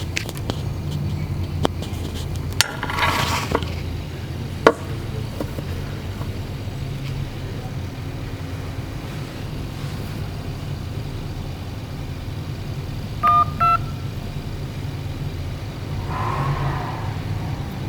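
Phone placing a call: two short electronic beeps about 13 seconds in, over a steady low hum with a few sharp clicks. The beeps come through the handset's own audio, a sign that the repaired phone's sound is working again.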